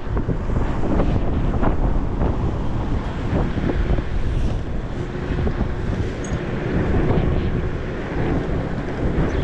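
Strong wind buffeting the microphone of a camera on a moving e-bike, a gusty low rumble, with the rider heading into a headwind.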